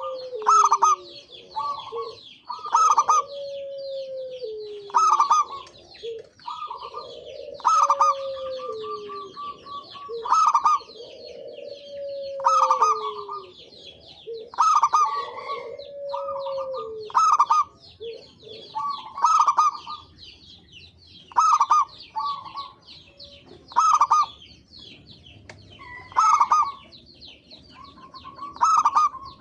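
Zebra dove (perkutut) cooing in a phrase repeated about every two seconds, made of quick clipped notes and, in the first half, a long falling coo. Smaller birds chirp throughout behind it.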